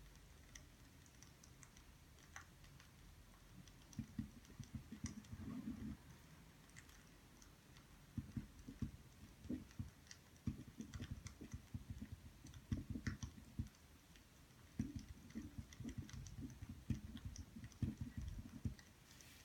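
Quiet desk-work sounds of studying: a pen writing on paper in irregular short bursts of soft tapping and scratching, with scattered faint clicks.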